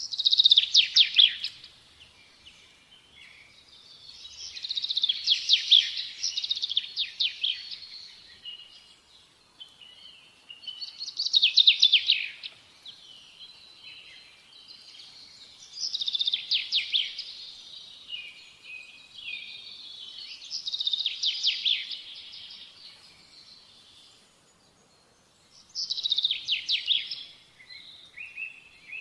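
A songbird singing in bursts of rapid high trills, each phrase about two to three seconds long, repeating every four to five seconds with softer chirps between them.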